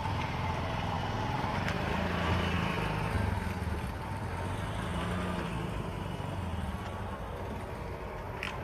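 A motor vehicle's engine running close by on a street, louder for the first few seconds and then fading away.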